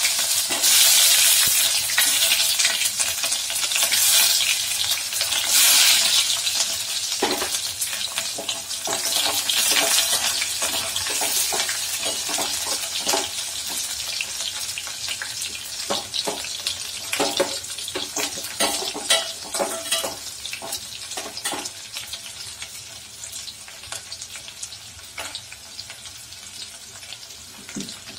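Sliced onion and dried red chillies frying in oil in a stainless steel pot, a loud sizzle in the first few seconds that gradually dies down. A perforated steel skimmer scrapes and taps against the pot as the mixture is stirred.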